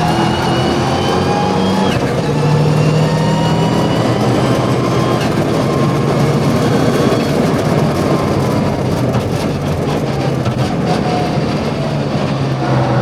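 Mitsubishi Lancer Evo VI Group A rally car's turbocharged four-cylinder engine pulling hard, its pitch climbing and then dropping at upshifts about two and five seconds in.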